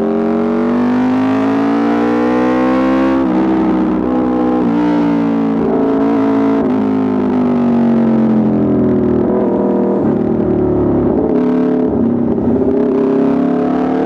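Aprilia RSV4 RR's V4 engine through an Austin Racing exhaust, its revs climbing and falling again and again. The pitch drops sharply about three seconds in, there are quick blips around five and seven seconds, and a long fall in the middle is followed by a climb near the end.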